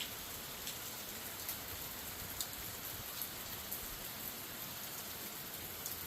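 Steady rain falling, with scattered sharp ticks of individual drops striking.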